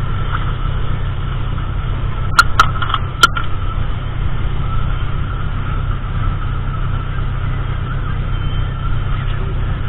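Car engine running, heard as a steady low rumble from inside the cabin, with a faint steady whine above it. Three sharp clicks come close together about two and a half seconds in.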